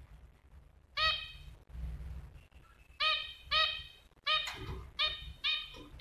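A small caged bird giving short, repeated call notes: one about a second in, then more from about three seconds in, quickening to about two a second near the end.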